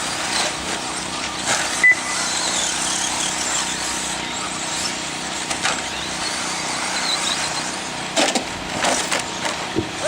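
Radio-controlled 2WD racing trucks running laps around a track: a steady mix of motor whine and tyre noise with faint rising and falling whines as they accelerate. A short sharp tone about two seconds in, and several sharp knocks near the end.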